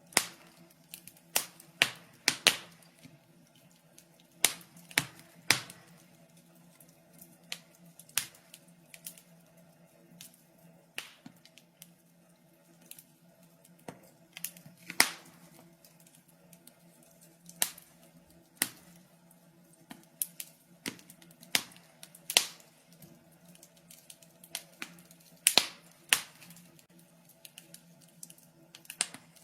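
Wood fire crackling in a fireplace: irregular sharp pops and snaps, some in quick pairs, over a faint steady low hum.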